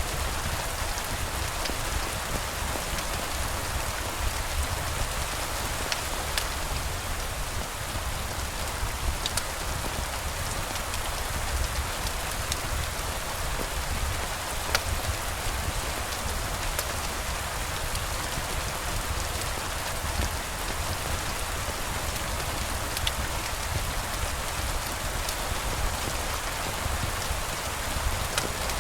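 Steady rain falling, an even hiss with scattered sharp ticks from single drops, over a low steady rumble.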